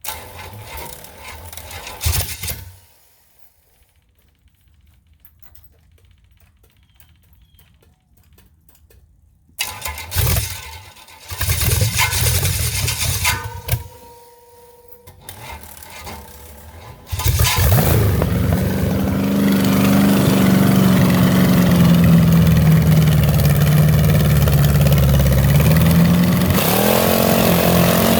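Chevy TBI 350 small-block V8 with its throttle zip-tied wide open, going through a few short starting attempts, then catching about two-thirds of the way in and running loud and steady. Its pitch sags slightly, then climbs sharply near the end.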